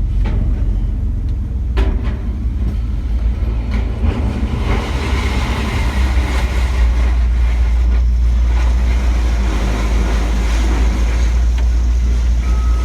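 Heavy vehicle engine running with a steady low rumble, with a few sharp metal clanks and a denser rattle of scrap metal from about five seconds in. Reversing beeps start up near the end.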